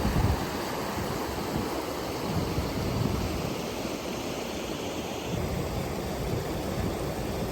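Steady rush of flowing water, with wind buffeting the microphone in uneven low gusts.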